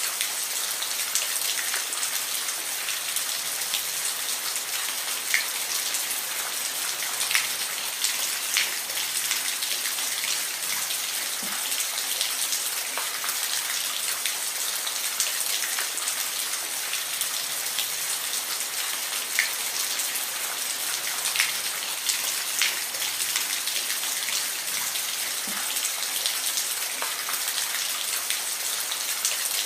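Steady rain: a constant hiss with individual drops ticking sharply here and there.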